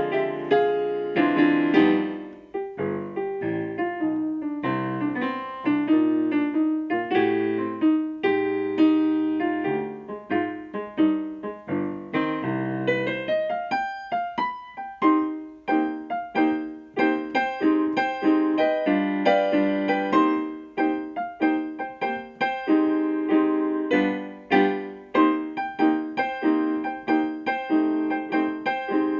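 Solo piano music played as a continuous run of notes, with no singing.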